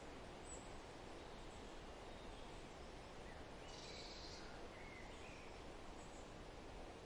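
Faint forest ambience: a steady hiss of background noise with a few faint bird chirps around the middle.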